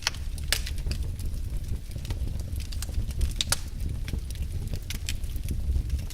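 Wood fire in a fireplace crackling and popping, with irregular sharp snaps over a low steady rumble of the flames; a couple of louder pops about half a second and three and a half seconds in.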